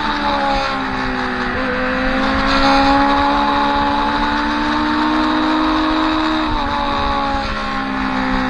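Onboard sound of a motorcycle engine pulling on a race track over wind rush. The engine note climbs slowly, drops in pitch about six and a half seconds in as with a gear change, and then climbs again.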